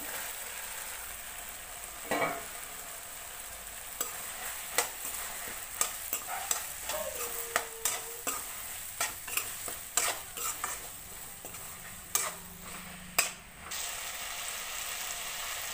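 Cut okra sizzling in oil and onion-tomato masala in a kadhai, a steady frying hiss. A metal spatula stirs it, scraping and clicking against the pan many times through the middle.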